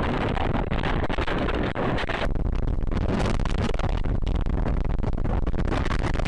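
A car driving, heard from inside through a dashcam: steady road and engine noise with many small clicks and crackles. The sound changes abruptly a little over two seconds in.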